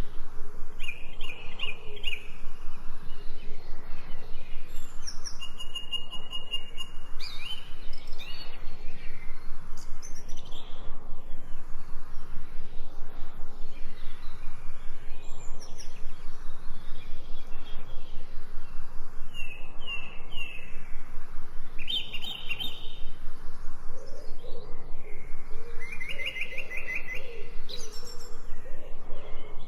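Songbirds chirping and calling in short, scattered phrases, over a steady, rapid pulsing of about three or four pulses a second.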